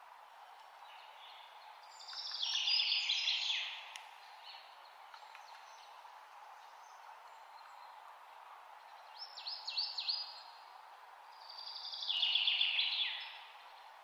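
Songbird singing three short phrases over a steady background hiss: a rapid trill falling in pitch about two seconds in, a quick burst of high notes near ten seconds, and another falling trill about twelve seconds in.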